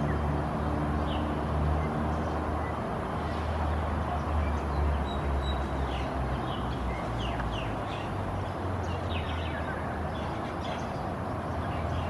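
Scattered short, high chirps from small birds, coming more often in the second half, over a steady low rumble.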